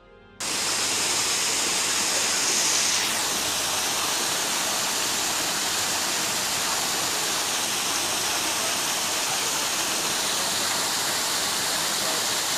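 Steady, loud rush of a large waterfall, cutting in abruptly about half a second in.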